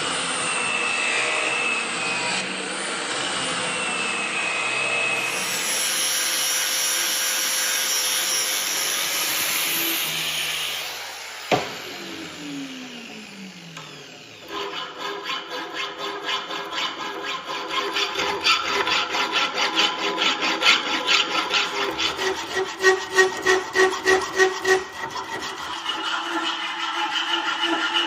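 Metalworking in a forge shop. A power tool runs steadily for about ten seconds, then is switched off and spins down with a falling whine. Then rapid, rhythmic scraping strokes on ringing steel follow, growing louder near the end.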